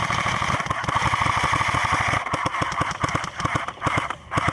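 Automatic airsoft rifle firing a long full-auto burst: a rapid, even stream of shots over a steady mechanical whine that thins out after about two seconds, with a couple of short bursts near the end.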